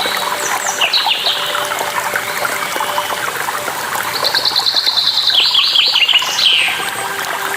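Songbirds chirping over steadily running water. Quick sweeping calls come early, then a fast trill of repeated notes about four seconds in, ending in a falling call.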